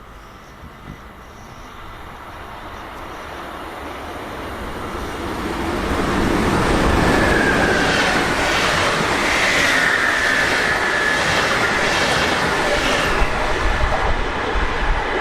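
A train approaching and passing close by, growing louder over the first six seconds. A thin wheel squeal sets in about seven seconds in, over a regular clatter of wheels running over rail joints.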